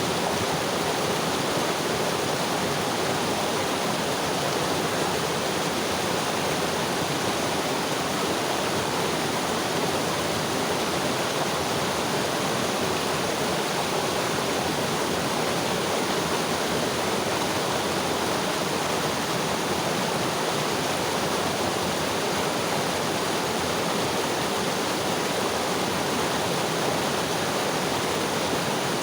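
Mountain river flowing over rocks: a steady, even rushing of water.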